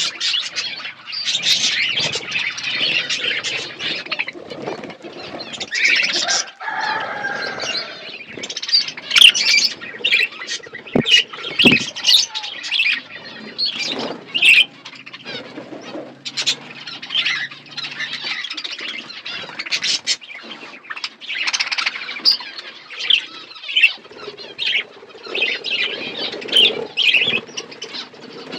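Budgerigars chirping and chattering continuously in quick, irregular short high calls.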